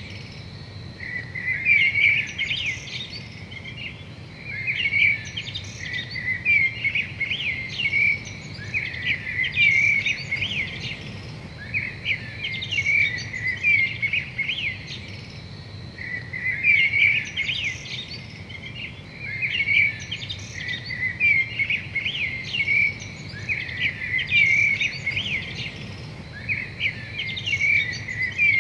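Birds singing short chirping phrases, one every second or two, over a faint low steady hum.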